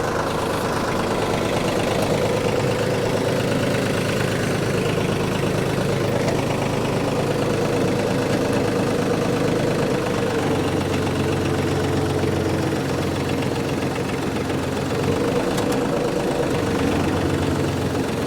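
Farm tractor engine running steadily while driving a brush hog rotary mower, with a mechanical whine over the engine note. The low engine note shifts a little partway through.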